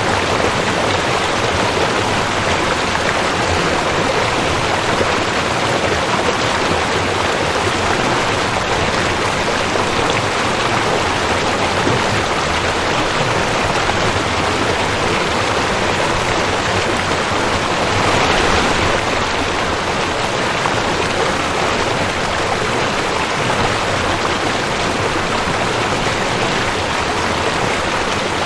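Rushing creek water flowing steadily, a dense even rush with a slight swell about eighteen seconds in.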